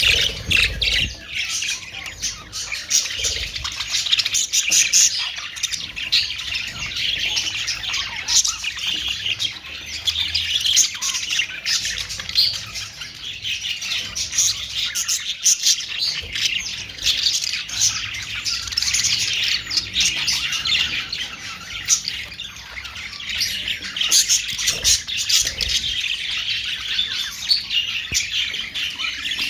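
Many small parrots chirping and squawking over one another in a busy, unbroken chatter of short, high calls.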